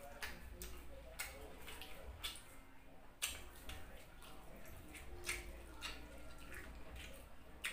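Wet chewing and lip smacking of someone eating fried pork, heard as irregular sharp smacks about two a second, one louder smack a little past three seconds in.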